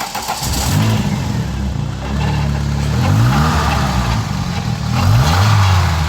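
Ford Galaxy 2.0 NSE petrol engine running on test, revved up and settling back a few times.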